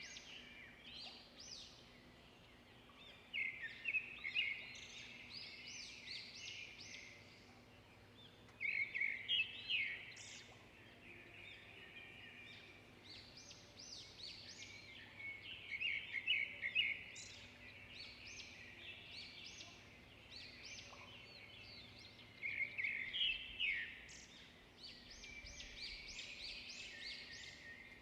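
Songbirds singing: a steady chorus of high, quick chirps and trills, with louder bursts of song about every six or seven seconds.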